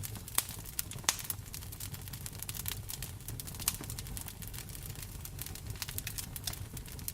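Wood fire in a fireplace crackling, with frequent irregular sharp pops, two of them louder about half a second and a second in, over a steady hiss and low rumble of rain.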